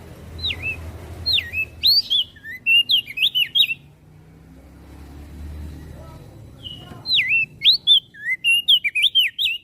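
Crested white-eye (opior jambul) singing: two bursts of quick, sharply swooping whistled notes, the second starting about halfway through.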